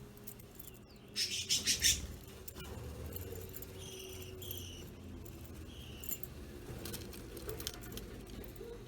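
Budgerigars giving a few short, high chirps, with a brief flurry of quick rattling clicks about a second in.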